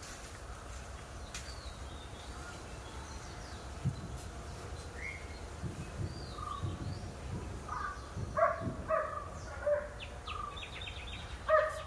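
Birds chirping here and there, then from about eight seconds in a dog barking in a run of short sharp barks.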